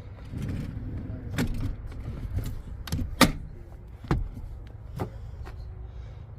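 Sharp clicks and knocks, about five spaced roughly a second apart, over a low rumble, typical of a vehicle's doors and fittings being handled.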